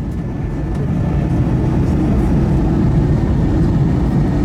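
Steady low rumble of an Airbus A321's engines and airflow.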